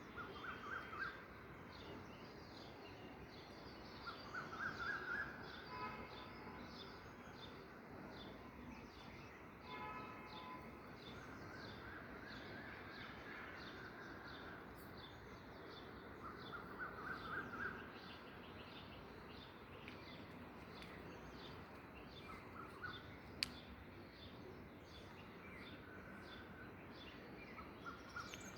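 Several birds calling in an early-morning chorus: a steady stream of high chirps, with louder trilled phrases every few seconds. There is one sharp click about 23 seconds in.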